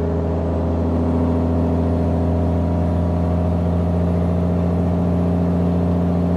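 Mack semi truck's diesel engine running loud at steady revs, its pitch holding even.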